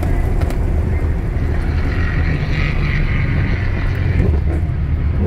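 Modified Holden VE Commodore SS V8 engine running steadily under way, with a higher-pitched hiss that swells for about two seconds in the middle.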